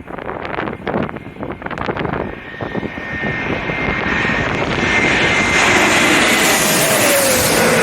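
Strong wind buffeting the microphone, then a jet airliner's engines growing steadily louder as it comes in low overhead to land. A high whine holds steady through the approach, and a lower tone drops in pitch near the end as it passes.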